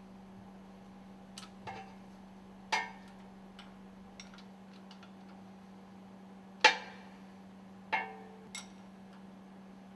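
Scattered sharp metallic clinks and knocks of hand tools on the stuffing box as its assembly bolts are undone, the loudest about two-thirds through, some ringing briefly. A steady low hum runs underneath.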